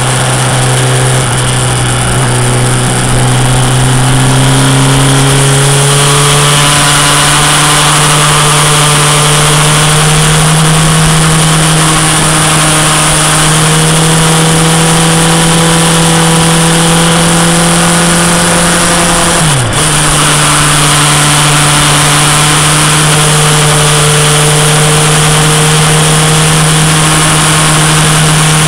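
Suzuki GSX-R's inline-four engine running hard under way, its note climbing over the first few seconds and then holding steady, with one brief dip and recovery about twenty seconds in. Wind rushes over the microphone throughout.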